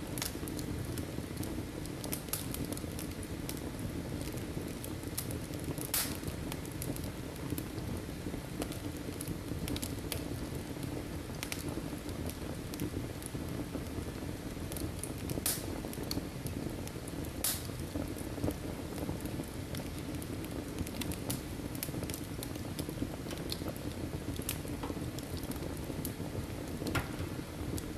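Wood fire burning in a fireplace: a steady hiss and low rumble of the flames, with scattered crackles and a few sharper pops from the burning logs.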